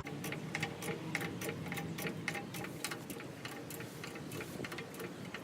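Car jack being worked to lift a truck, clicking rhythmically about four times a second.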